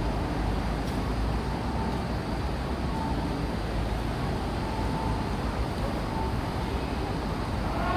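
Steady background ambience of a public place, a continuous low rumble with faint brief tones coming and going over it.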